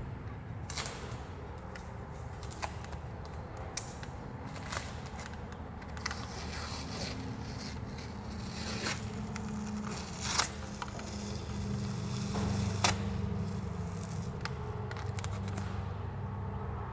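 Masking tape being peeled off a painted guitar body: a soft crackling, scraping tear with scattered clicks and handling knocks, two of them louder in the second half, over a steady low hum.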